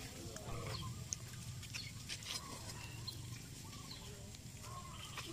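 Faint bird calls, perhaps chickens clucking, over a steady low outdoor rumble, with a few scattered clicks.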